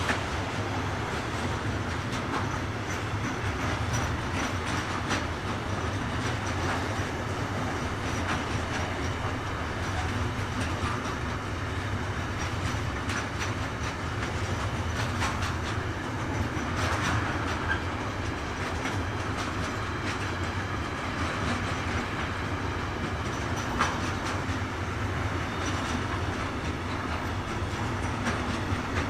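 Freight train wagons rolling past steadily, with wheels clicking irregularly over the rail joints.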